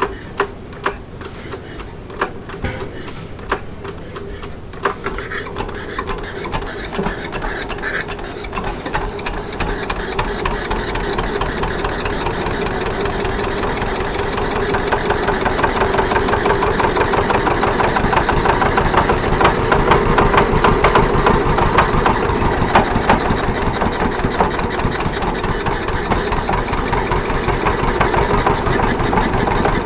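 Two-cylinder Kelvin marine engine, which starts on petrol and runs on diesel, catching: separate firing beats at first, then coming closer together and getting louder as it picks up speed into a fast, even run.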